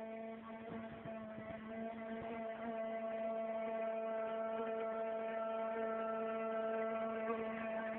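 Small 380-size electric motor of a radio-controlled jet boat running at a steady speed, driving its water-jet unit: a constant pitched whine that gets a little louder over the first couple of seconds, then holds steady.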